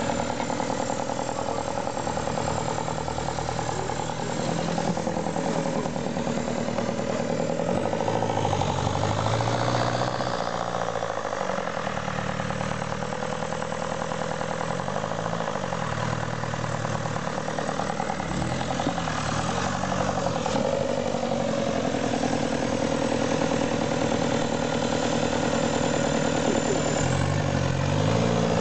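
Engine of a small off-road 4x4 running continuously as it crawls through a ditch, the revs rising and falling several times as the driver works the throttle.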